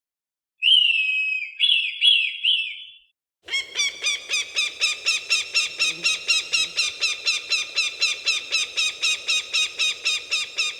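Falcon calling: a screeching call followed by three short notes. After a brief pause comes a rapid, even series of sharp cackling calls, about four a second.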